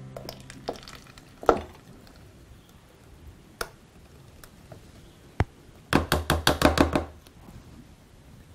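A steel mixer-grinder jar clinks against a plastic container as blended banana-and-cream mixture is poured out. There are a few single knocks, then about six seconds in a quick run of about eight taps lasting a second.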